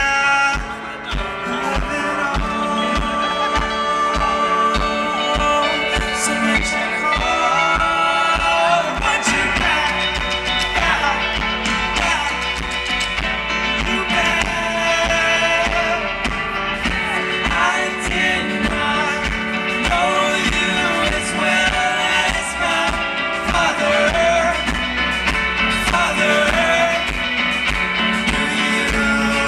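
Indie rock band playing a song live, with sung vocals over a steady drum beat.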